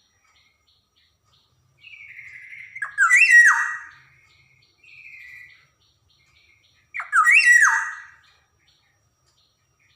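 Black-naped oriole (kepodang) singing. It gives two loud fluty whistled phrases, about three and seven seconds in, each sliding between low and high notes, with softer calls between them.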